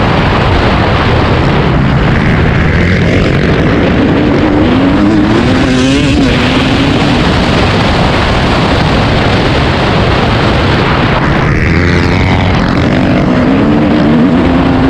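Dirt bike engine running hard, its pitch climbing and dropping several times as it revs through the gears, over a heavy steady rushing noise.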